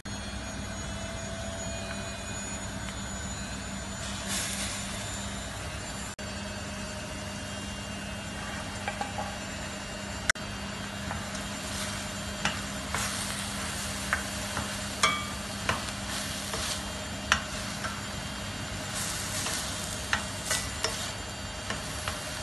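Minced meat and vegetables sizzling steadily in a stainless steel pan while being stirred with a wooden spoon. From about halfway through, the spoon knocks against the pan in scattered sharp clicks.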